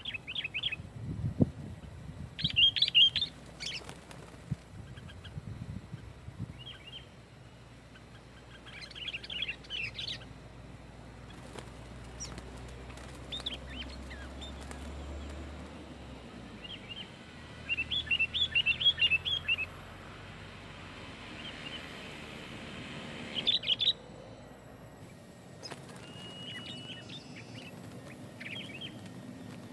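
Sooty-headed bulbul (kutilang) singing in repeated bursts of quick, chirpy notes, with short pauses between the phrases.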